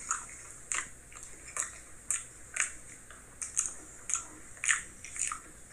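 A person chewing a mouthful of pizza: short smacking clicks of the mouth, about two a second.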